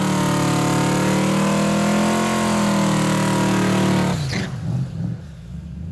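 Twin-turbo Mustang Cobra's V8 at full throttle on a drag strip pass, the engine note holding roughly steady, then dropping off sharply about four seconds in.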